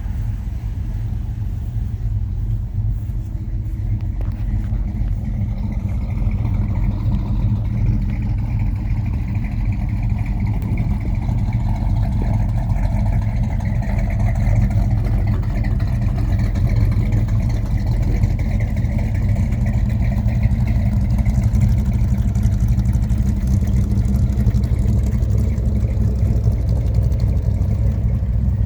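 Mopar car engine running steadily with a deep exhaust sound, getting a little louder after about six seconds.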